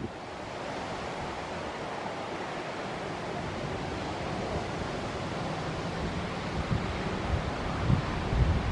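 521 series electric train running on the line, a steady rolling noise with a faint steady hum joining about halfway. Wind buffets the microphone near the end.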